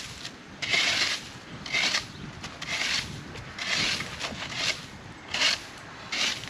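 Scratchy sweeping strokes of a makeshift broom made from a forked tree branch, brushing leaves and debris across the ground, about one stroke a second.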